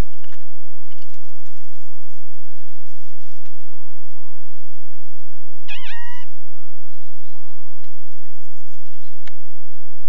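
A single short, wavering bird call about six seconds in, rich in overtones, over scattered light taps and clicks.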